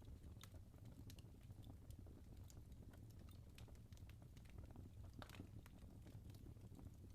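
Faint wood fire crackling: scattered small pops and snaps over a low steady rumble, with a sharper snap about five seconds in.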